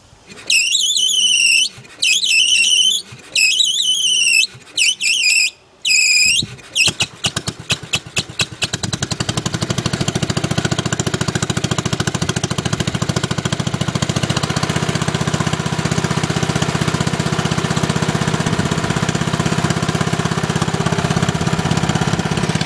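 Small garden tractor engine being cranked by its electric starter in five short bursts with a high whine, sputtering into life about seven seconds in, then running steadily with no muffler.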